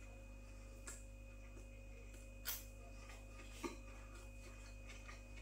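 Faint sounds of a man chewing a mouthful of burger, with a few soft clicks from the mouth, the louder two about two and a half and three and a half seconds in, over a steady low hum.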